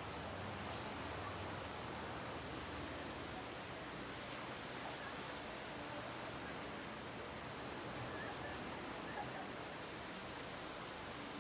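Ocean surf washing onto a beach: a steady hiss of breaking waves.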